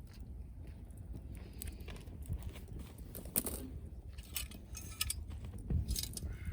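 Wood fire burning, crackling with scattered sharp pops and clicks over a low rumble.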